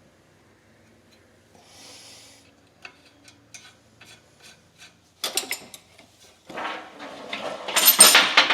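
Wrench and hand work on a threaded fuel-line fitting being sealed with Teflon tape: a few light clicks, then loud, harsh metal scraping and rubbing as the fitting is tightened, loudest near the end.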